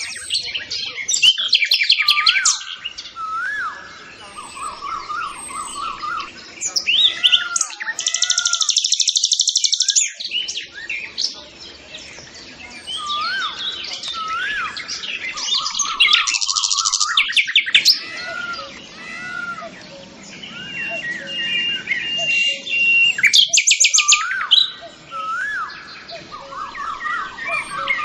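Birds chirping and calling: repeated short hooked whistles, broken several times by fast, high trilled bursts of chatter.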